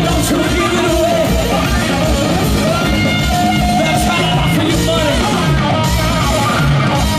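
Rock band playing live through a festival PA: loud electric guitar, bass and drums with a singer, heard as one dense wash of amplified sound.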